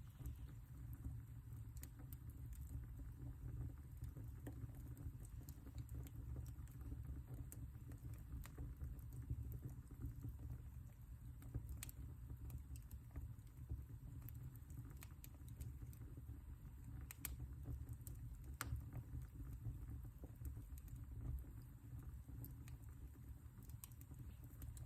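Fireplace fire crackling: scattered sharp pops and snaps at irregular intervals over a steady low rumble.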